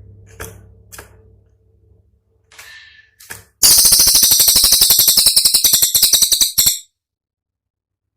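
Cililin songbird giving a loud, rapid rattling trill of sharp high clicks, about a dozen a second, lasting about three seconds: the piercing 'tembakan' burst valued as song material. It is preceded by a few faint chirps over a low hum.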